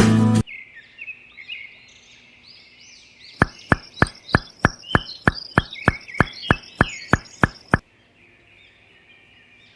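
Birds chirping, with a run of about fifteen sharp, evenly spaced knocks, roughly three a second, lasting some four seconds in the middle.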